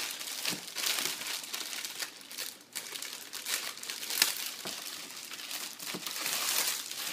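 Packaging crinkling and rustling as an accessory is handled, with many sharp crackles, stopping abruptly at the end.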